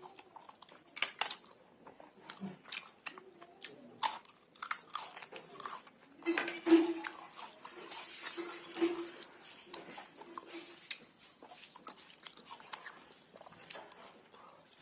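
Close-miked eating: a person biting and chewing crunchy food, with repeated sharp crunches.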